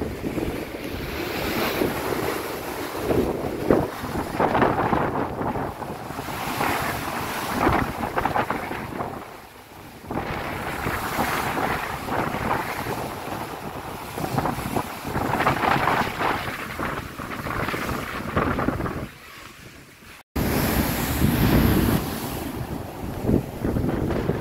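Strong wind buffeting the microphone over sea waves washing around a ship under way, rising and falling in gusts. The sound drops out for a moment about twenty seconds in.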